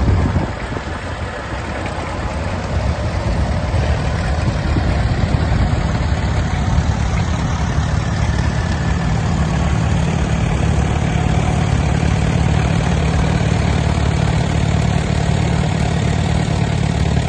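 Allis-Chalmers D272 tractor's Perkins P3 three-cylinder diesel engine idling steadily. The engine was freed from seizure and has just been brought back to life after standing in a barn. It gets a little louder over the first few seconds.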